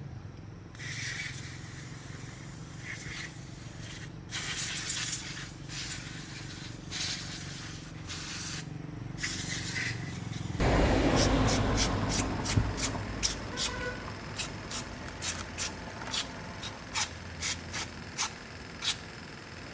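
Several short hissing bursts of spray, then a louder rushing hiss with a low rumble about halfway through, followed by a run of sharp clicks.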